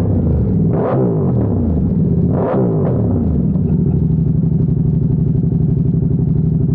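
Ducati Diavel 1260S's V-twin engine through an aftermarket Zard exhaust, blipped twice, about a second in and again at two and a half seconds, the revs falling back after each, then idling steadily.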